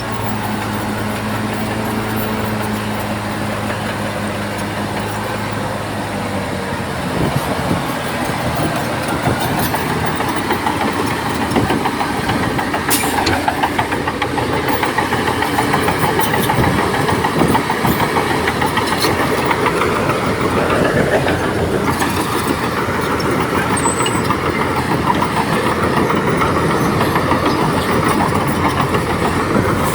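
Bulldozer's diesel engine running steadily, then from about seven seconds in getting louder and rougher as the machine works, with a dense metallic rattle typical of steel crawler tracks.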